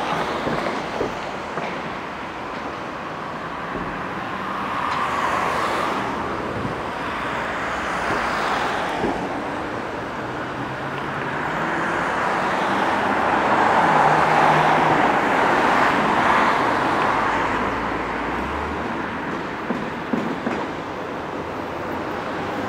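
SS8 electric locomotive and passenger coaches approaching on the line, heard as a steady rushing rumble with road traffic mixed in. It swells to its loudest about two-thirds of the way through, and a few sharp clicks come near the end as the train draws close.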